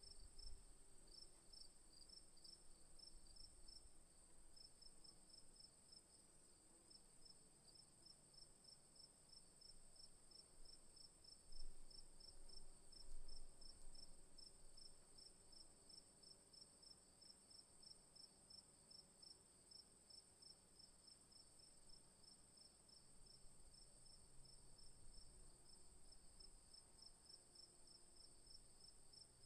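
Faint bush insect chorus: crickets chirping rapidly, about four to five chirps a second, over a steady high insect trill. Two low bumps come near the middle.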